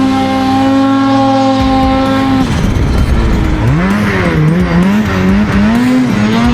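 Snowmobile engine running hard at a steady high pitch, then rising and falling over and over as the throttle is worked.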